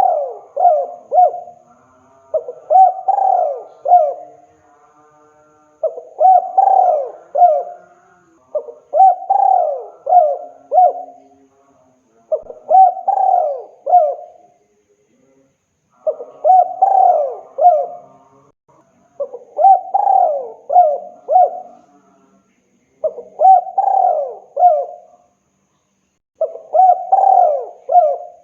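Spotted dove cooing its song over and over, each phrase a quick run of three or four coos, repeated about every three seconds.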